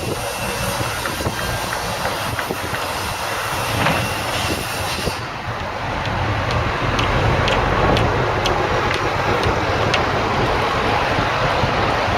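Heavy construction machinery running with a steady rumbling noise, with a run of sharp clicks about twice a second starting about halfway through.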